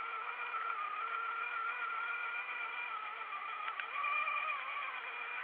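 A vehicle's motor running with a steady, high whine that wavers slightly in pitch.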